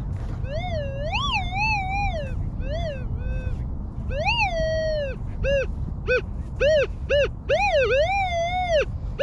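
Gull calling: a series of loud, wavering cries that swoop up and down in pitch, with quicker short notes in the middle, over a steady low rumble.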